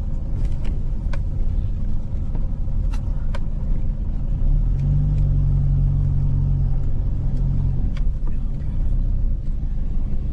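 A car driving: steady low engine and road rumble, with scattered sharp knocks and rattles. Partway through the engine note firms into a stronger hum for a few seconds, then eases back.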